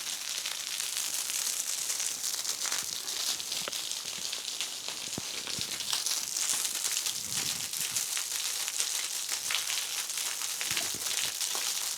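Waterfall pouring and splashing: a steady, high hiss of falling water and spray, spattered with crackling drops.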